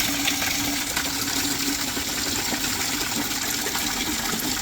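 Water running steadily into a bucket as it fills.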